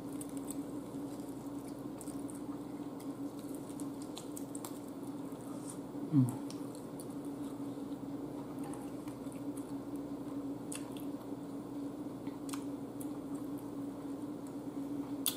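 A person chewing and biting into air-fried chicken wings close to the microphone, with wet mouth sounds and scattered small clicks, over a steady low hum. A brief louder low sound with falling pitch comes about six seconds in.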